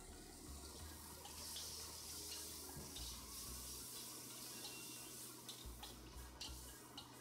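Red chilli paste sizzling in hot oil in a large metal kadai while it is stirred, the spatula scraping and clicking against the pan a few times near the end.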